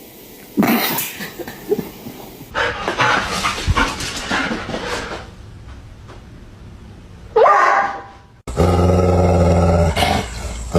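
A dog barking and growling in several separate bursts, with one sharp cry that falls in pitch about three-quarters of the way through, then a long steady low pitched sound near the end.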